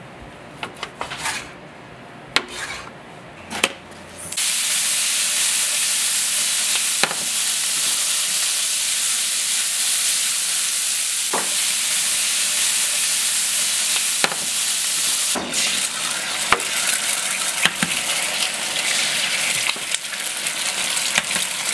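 A knife slicing deer sausage on a plastic cutting board, with a few sharp knocks. Then, about four seconds in, a loud, steady sizzle starts: sausage slices and then eggs frying in a pan on an electric stove, with the odd clink of a utensil against the pan.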